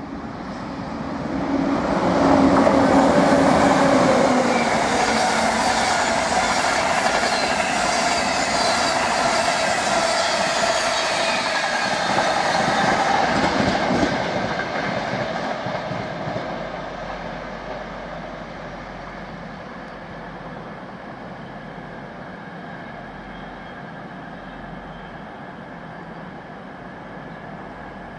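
Class 91 electric locomotive and its InterCity 225 coaches passing: the rumble and clatter of the wheels on the track swells about two seconds in, stays loud for about twelve seconds, then fades away.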